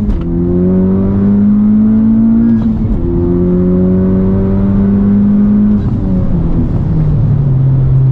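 A 2021 Honda Civic Type R's turbocharged 2.0-litre four-cylinder under full-throttle acceleration, heard from inside the cabin. The engine note rises in pitch through the gears, with a quick upshift about every three seconds. Near the end it settles to a steady, lower drone as the throttle is lifted.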